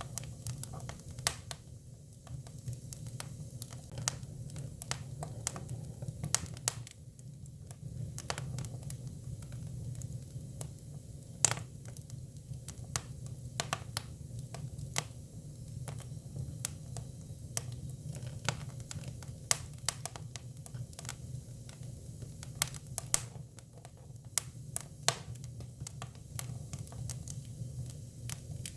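Hinoki cypress firewood burning: irregular sharp crackles and pops, several a second at times, over a steady low background hum.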